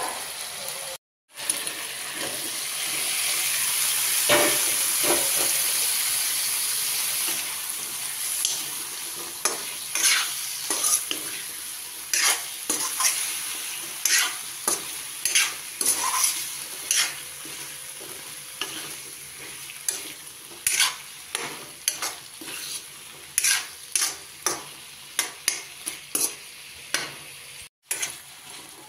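Pumpkin pieces frying in hot spiced oil in a metal kadai: a loud sizzle swells over the first several seconds. Then a steel ladle stirring them scrapes and knocks against the pan about once a second while the sizzle goes on more quietly.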